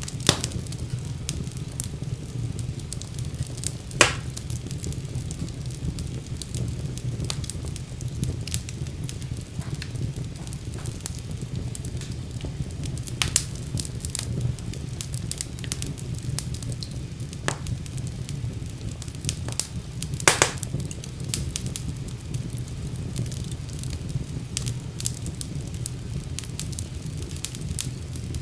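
Wood fire crackling in a fireplace: a steady low rumble of flames under frequent sharp pops and snaps, with a few louder pops scattered through.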